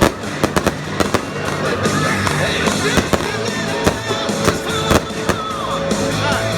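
Fireworks going off in rapid, irregular cracks and pops, over loud music.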